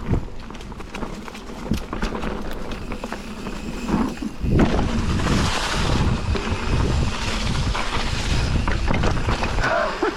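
Mountain bike riding over a snowy, muddy trail: tyre rumble and knocks and rattles of the bike, with wind on the microphone. It gets louder and hissier from about four and a half seconds in.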